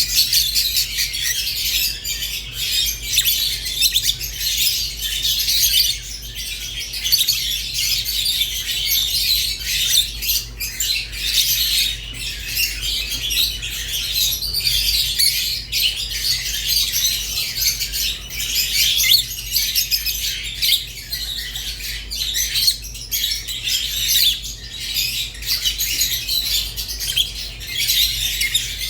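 Small pet parrots chirping and chattering without pause, a dense high-pitched warble with quick clicks and occasional sharper squawks, over a steady low hum.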